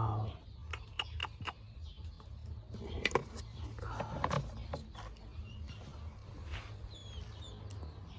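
Scattered light clicks and taps over a low steady hum, with a few short bird chirps near the end.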